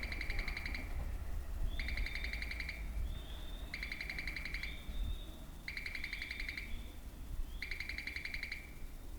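A chirp call repeating at even intervals, five times about two seconds apart. Each is a buzzy trill about a second long, then a short whistled glide.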